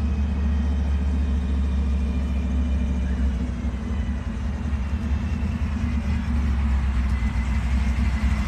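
Car engine idling with a choppy, lumpy idle, a steady pulsing low rumble with no revving.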